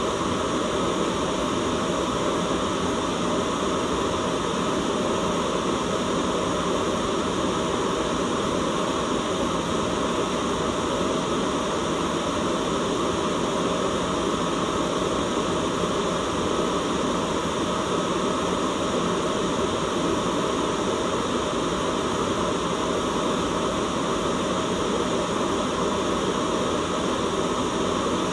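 Steady, unchanging noise with no tones or events, heaviest in the low-middle range so that it sounds more like a rushing hiss than bright static.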